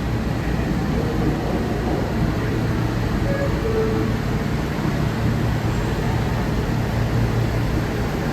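Steady low hum and rumble of New York subway station ambience, with faint short tones about three and a half seconds in.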